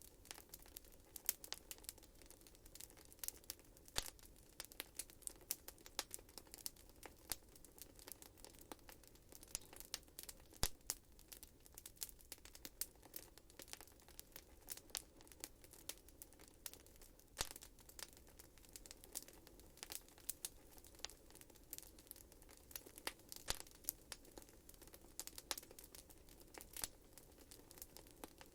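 Wood fire burning in a fireplace, crackling and popping with frequent sharp irregular snaps over a faint steady hiss of the flames.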